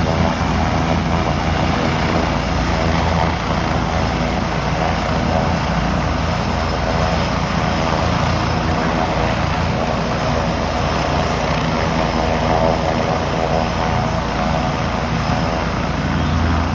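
Helicopter engine and rotor running steadily at close range, a loud even drone.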